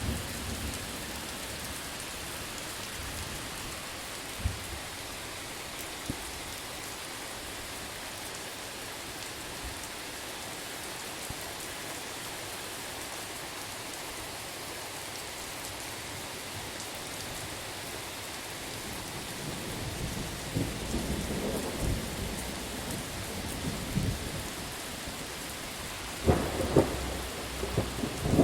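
Steady heavy rain, with distant thunder rumbling in the second half and growing, until a loud thunderclap breaks right at the end.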